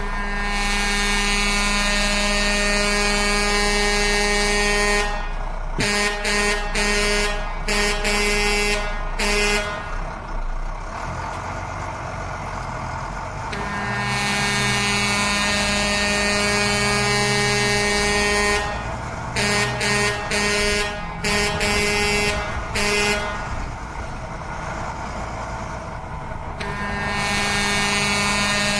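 Vehicle horn sounding in long held blasts, alternating with runs of short rapid toots, with a quieter, lower wavering sound in between; the sequence repeats about every thirteen seconds.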